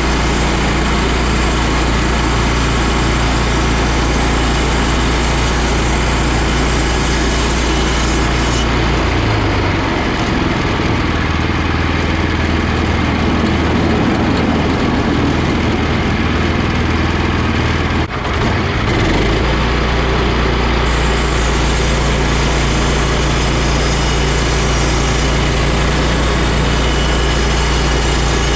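Engine of engine-driven wood-processing machinery running steadily. Its note changes for about ten seconds in the middle, with a brief dip about 18 seconds in.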